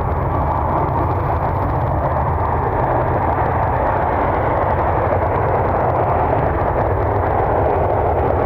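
Wind buffeting the microphone: a steady, loud rushing rumble with no engine whine.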